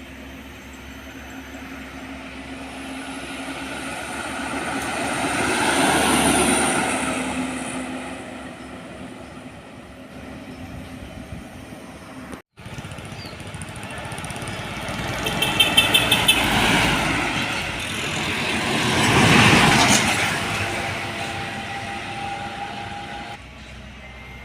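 Heavy trucks passing by on a road one after another, each swelling up and fading away: one pass-by, a brief cut-out about halfway, then two more close together. A short rapid rattle sits on top of the second one.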